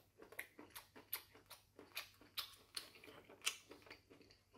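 Faint, irregular wet clicks and smacks of a mouth chewing soft crayfish meat, about two or three a second.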